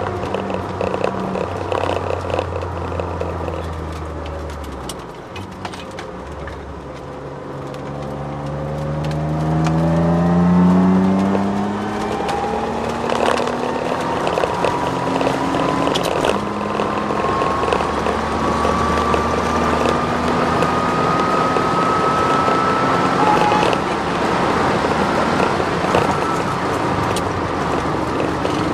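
Twin-turbo Ford Sierra XR4x4 V6 heard from inside the cabin on track. The engine eases off, then pulls hard up through the revs, and a thin drivetrain whine rises steadily in pitch as speed builds; the owner puts the whine down to the solid diff mount. Scattered knocks from the car going over bumps.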